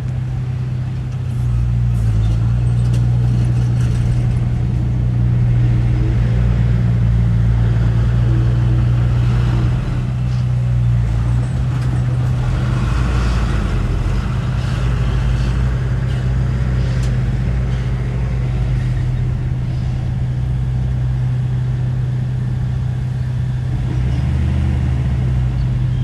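Heavy diesel engine of earthmoving machinery running steadily under load, a deep even drone with scattered faint clanks.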